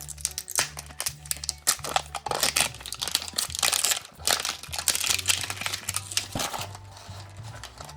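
Wrapping of a surprise toy ball being crinkled and torn open by hand, with dense crackling that is strongest through the middle and eases off near the end. Quiet background music runs underneath.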